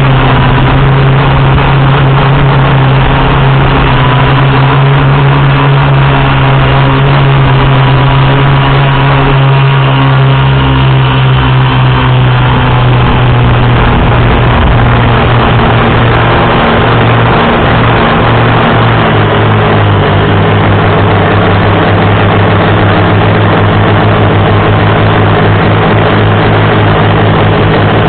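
Electric motors and propellers of a 450-size FPV quadcopter buzzing steadily in flight, with a noisy rush over the hum. The pitch shifts with throttle about twelve seconds in and again near twenty seconds.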